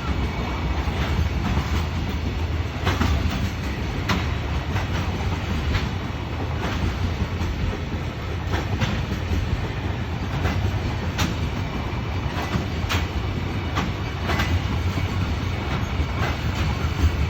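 Container freight train of Koki flat wagons rolling past: a steady low rumble with irregular clacks of wheels over rail joints.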